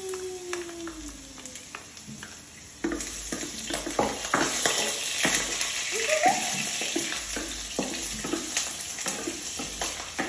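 Minced garlic and ginger sizzling in hot oil in a nonstick pot, stirred with a wooden spatula that scrapes and taps against the pan. The sizzle grows louder about three seconds in.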